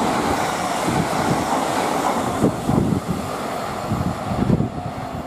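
Train passing by, a steady rushing rail noise that dims near the end, with wind buffeting the microphone.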